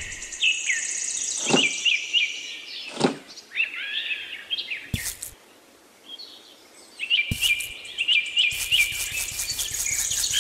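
Birds chirping with repeated short calls, broken by a few sharp knocks and taps as small pieces of a miniature diorama are set down on the board.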